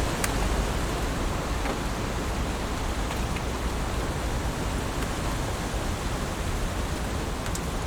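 Heavy rain falling in a steady, dense hiss, with a few sharp drop ticks near the start and again near the end.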